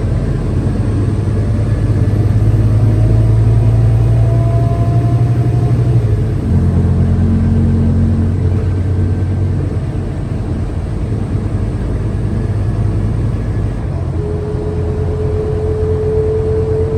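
Scania K320UA city bus running under way, a steady engine hum whose note changes abruptly about six and a half seconds in. A faint rising whine comes in near the end.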